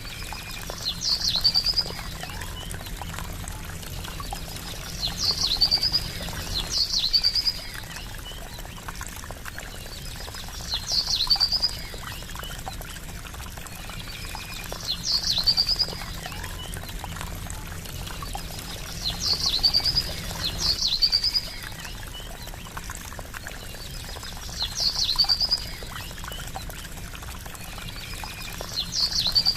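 Water trickling steadily, with a short high chirping call rising above it every four to five seconds, sometimes twice in a row.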